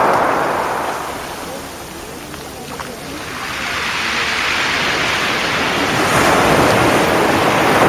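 Sea waves washing onto the shore: one wave's wash fades out about two seconds in, and the next swells up and peaks near the end.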